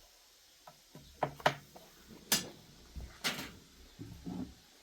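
A few scattered light knocks and clicks of things being handled, the sharpest about a second and a half in and a little after three seconds, with a brief low murmur near the end.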